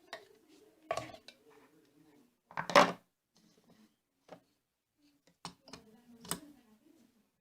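Hard objects clattering and knocking as they are handled and set down: a few separate clicks and knocks, the loudest about three seconds in and another sharp one near the end.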